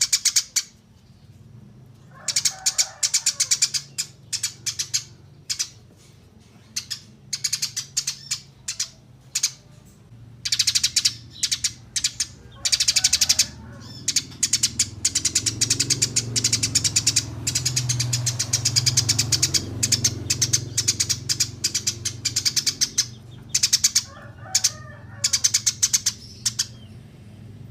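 A songbird singing rapid series of high, sharp chirps, in bursts of fast trills broken by short pauses. A low hum runs underneath, strongest around the middle.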